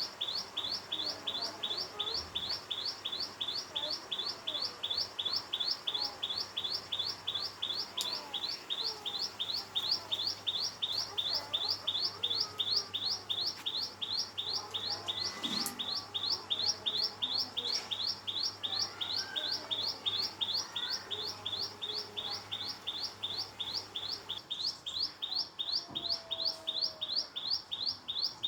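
A bird calling a long, unbroken series of identical short, high-pitched notes, about four a second, evenly paced.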